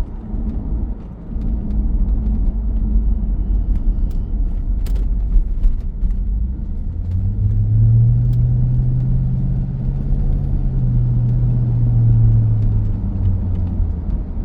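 A 2002 C5 Corvette's 5.7-litre V8 running through a custom axle-back exhaust with Magnaflow mufflers and electric cutout valves, a steady low rumble while driving. About seven seconds in, a deeper exhaust drone swells up and holds for several seconds under load, then fades away near the end.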